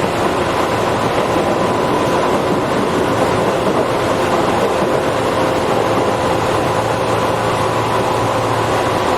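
Tobu 8000 series electric train running between stations, heard from inside the car: a steady rumble of wheels on the rails with a faint, steady high whine.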